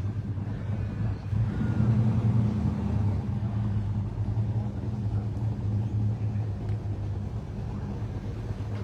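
Car engine idling with a steady low hum, swelling slightly about two seconds in.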